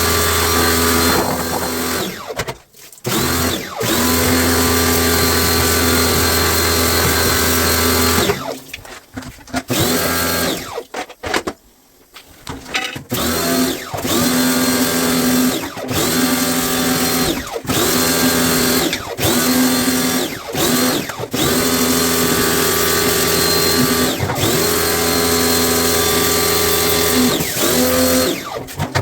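Electric drill-driver running in repeated short runs, its motor whine sweeping down as it stops and back up as it restarts every second or two, as screws are backed out to take apart a top-loading washing machine. The footage is sped up three times, which quickens the runs.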